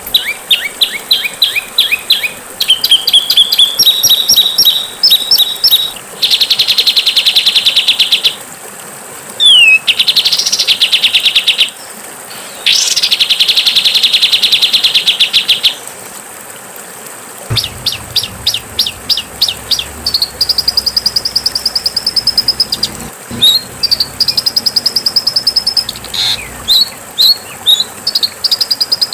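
Songbirds singing fast trills of rapidly repeated high notes, with long buzzy rattles lasting a few seconds each in the middle and quick, separate chirps near the end.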